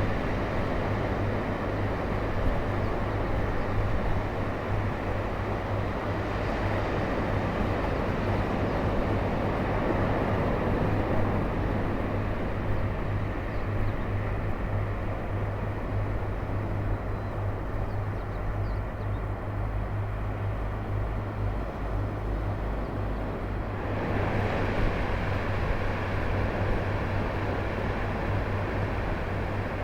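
Steady outdoor noise of wind and ocean surf, with a low steady hum underneath; the hiss grows a little brighter about three-quarters of the way through.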